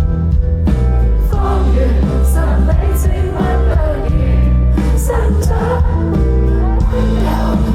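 Live pop band playing with heavy bass and cymbal hits under a sung melody.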